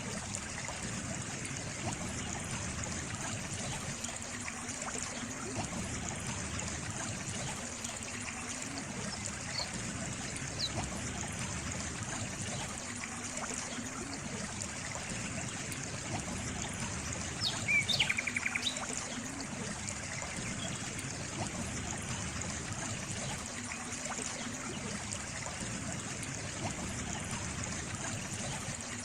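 Steady trickling and running stream water. A bird gives a brief call, a quick run of rapid notes, about two-thirds of the way through, with a couple of faint chirps earlier.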